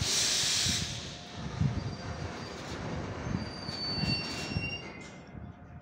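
Freight train of covered hopper wagons rolling past, wheels thumping unevenly over the rail joints. A loud hiss fills the first second, and thin high-pitched wheel squeal rises in the second half.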